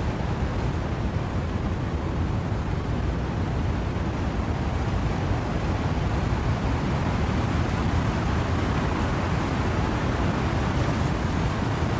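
Wind and rain rushing through trees: a steady, dense noise, heavy in the low end, with no separate events.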